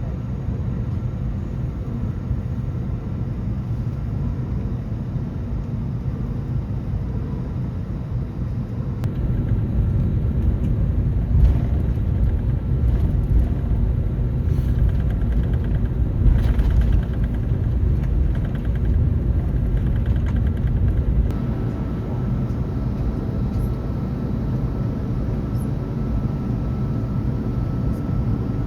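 Steady low rumble inside the cabin of an Airbus A321neo. It grows louder for about ten seconds in the middle, with a few brief knocks, then settles back.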